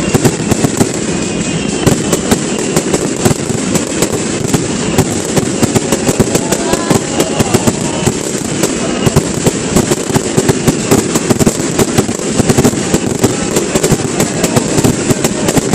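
Aerial firework shells bursting in a dense barrage: rapid overlapping bangs and crackling, several every second with no pause.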